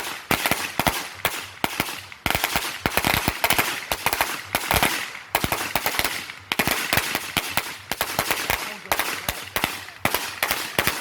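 Firecrackers going off in rapid succession: sharp bangs several per second, bunched in clusters with short gaps, like a long string of firecrackers.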